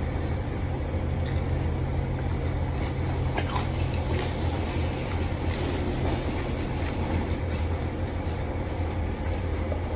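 Chewing a mouthful of seafood salad, with small wet clicks and crunches from crisp lettuce, over a steady low hum.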